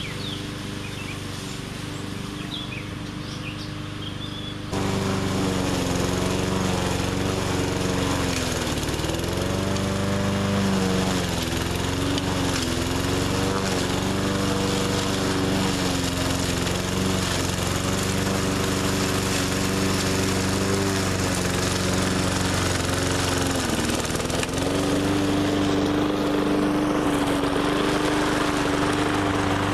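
A 20-inch walk-behind push mower's engine running steadily while it cuts heavy brush. It gets suddenly louder about five seconds in. Twice, about nine seconds in and again near the end, the engine speed sags briefly under the load and then recovers.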